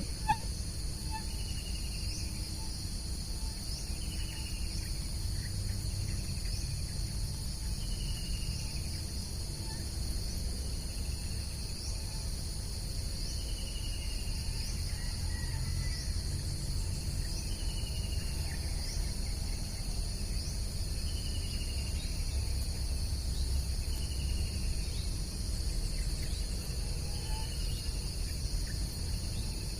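Steady, unbroken high-pitched drone of insects, with a bird repeating a short falling call about every two seconds over a low rumble.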